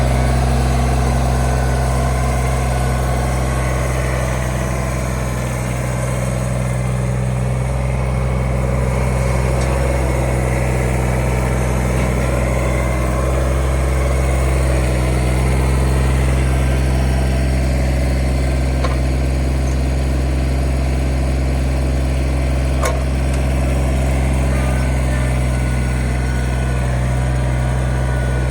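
Kubota BX25 compact tractor-backhoe's three-cylinder diesel engine running steadily, easing off slightly for a few seconds early on.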